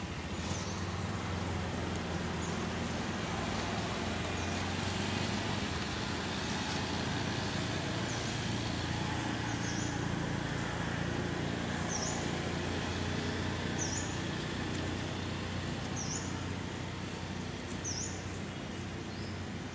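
Outdoor ambience: a steady low hum with a bird repeating a short, high chirp every second or two over it.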